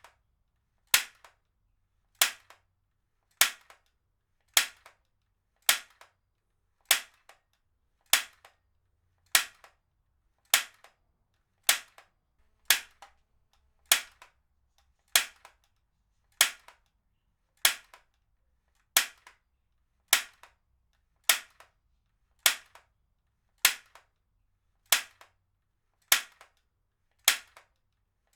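Heavy-duty stapler fired again and again at an even pace, about one sharp snap a little over every second, each followed by a faint second click.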